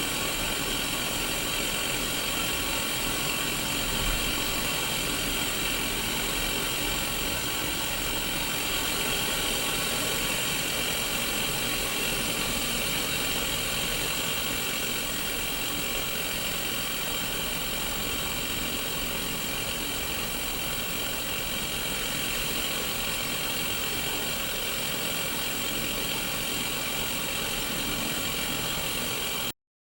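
Steady static hiss from a Sony Mega Watchman black-and-white pocket CRT TV tuned to no signal, with a faint low hum underneath. It cuts out briefly near the end.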